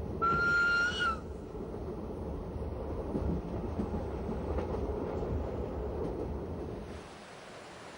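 Metre-gauge train giving one horn blast of about a second, then running with a steady low rumble of wheels on track. The rumble drops away about seven seconds in.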